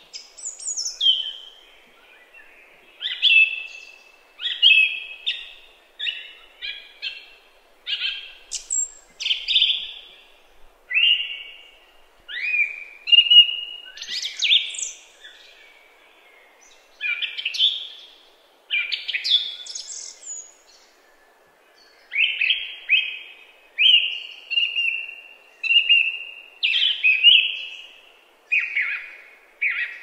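Songbird singing, a run of short, high chirping phrases about one a second with brief pauses between them.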